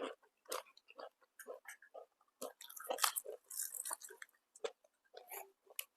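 Close-miked chewing of food, with irregular wet smacks and small crunches and a busier stretch of chewing a few seconds in.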